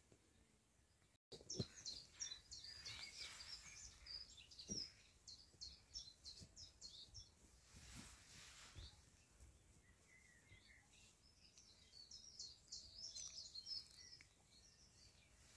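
Faint outdoor birdsong: small birds chirping in quick high notes, in two spells, over quiet background. The sound drops out for a moment about a second in.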